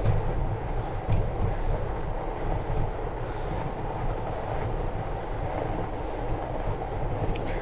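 Fatbike riding over a snowy trail: a steady rolling rumble from the fat tyres and the bike, with two brief clicks, one about a second in and one near the end.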